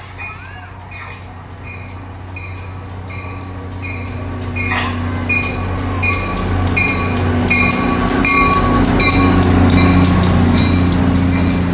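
Diesel locomotive (a GP40-3H) pulling a commuter train into the station, its engine drone growing louder as it comes alongside. Its bell rings about twice a second, and wheel and rail noise from the passing coaches builds up.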